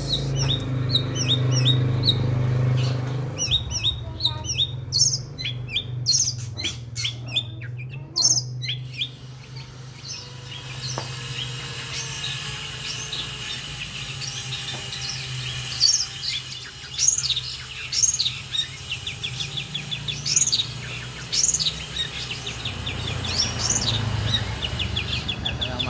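Long-tailed shrike singing: sharp, high chirps and cackling phrases repeated in quick series, with a fast rattling run near the end.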